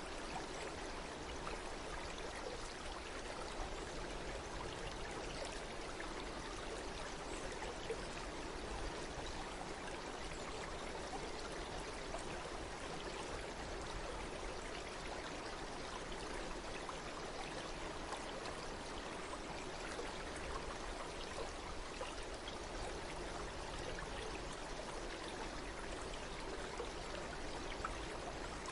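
Stream water flowing steadily, an even rushing wash that does not change.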